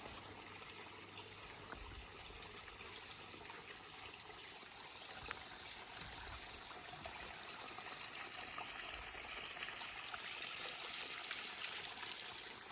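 Small stream trickling and running steadily, a little louder in the second half.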